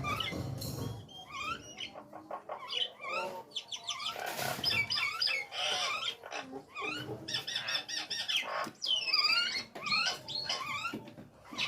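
Hill myna (jalak nias) calling: a rapid, continuous run of short whistles, chirps and gliding notes mixed with a few harsh squawks.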